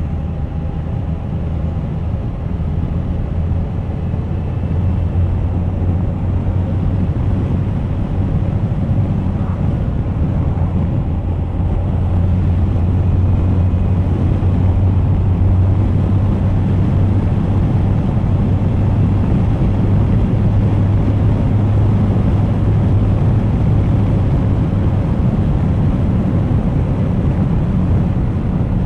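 Suzuki GSX1250FA inline-four engine running under way on the road, a steady low drone mixed with wind buffeting the camera microphone, getting a little louder about twelve seconds in.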